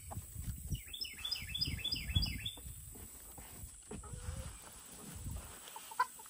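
A bird chirping a quick run of short, high, falling notes about a second in, over low rustling and handling noise.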